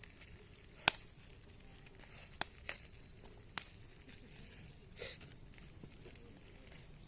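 Small fire of zelkova and willow branches crackling quietly, with a few sharp pops, the loudest about a second in.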